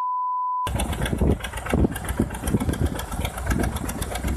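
A censor bleep, a pure beep tone lasting under a second, then a steady, rough rumbling noise with fast crackle, like an engine running.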